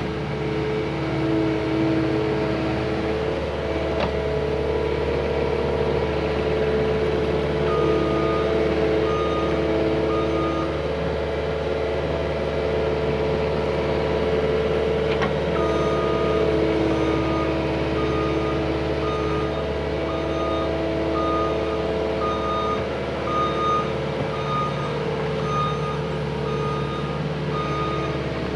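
Cat 259D compact track loader's diesel engine running steadily under work. Its reversing alarm beeps about once a second, starting about eight seconds in, pausing briefly, then resuming as the machine backs up.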